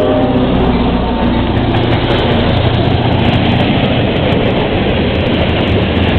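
Norfolk Southern freight train passing close by: the diesel locomotive's low rumble as it goes past at first, then the steady rush and clatter of the freight cars' wheels rolling on the rails.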